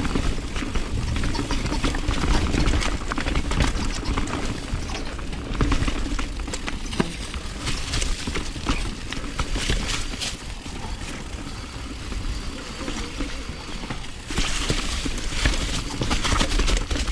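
A mountain bike riding a rough dirt trail, picked up by a bike-mounted action camera: a continuous clatter of tyres over dirt and rocks and the bike rattling, with low wind rumble on the microphone. The noise grows louder and hissier near the end.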